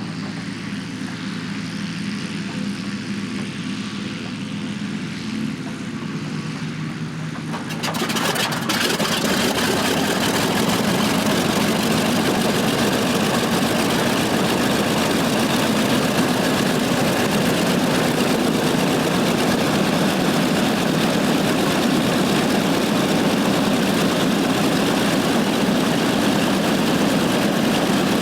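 A Corsair's Pratt & Whitney R-2800 radial engine catching and starting about eight seconds in. A steady, quieter hum before it gives way suddenly to loud running, which then settles into a steady idle.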